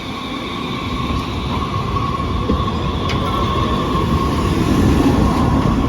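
Muni Metro light rail train running: a steady rumble with a high, steady whine, growing louder toward the end.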